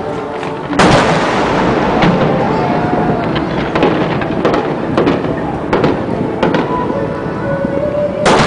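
Fireworks shells bursting: a loud boom about a second in, then a run of crackles and smaller reports, and another loud boom near the end.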